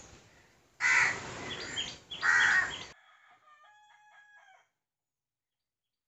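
Two loud, harsh bird calls about a second and a half apart, followed by fainter, stepped piping notes that stop about four and a half seconds in.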